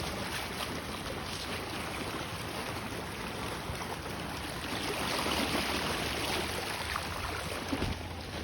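Sea water washing over a lava-rock shoreline, with a bigger surge swelling up about halfway through.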